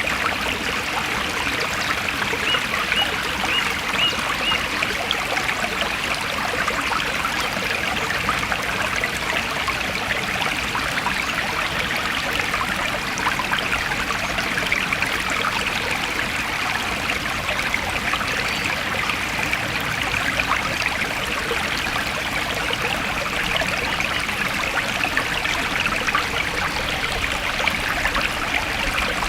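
Forest stream flowing steadily, an even rushing trickle of water.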